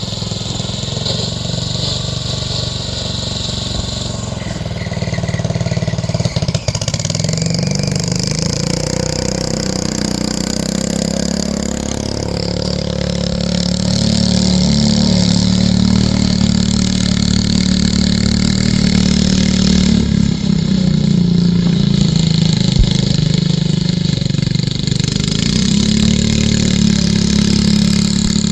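John Deere 210 lawn tractor engine running steadily as the tractor is driven round, growing louder about halfway through.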